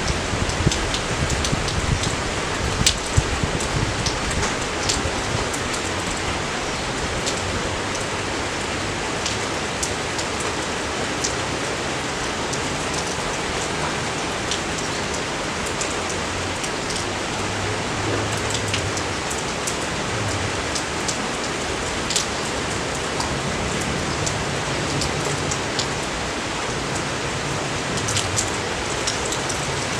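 Steady rain falling, a dense even hiss dotted with sharper ticks of individual drops, with a few louder drips in the first few seconds.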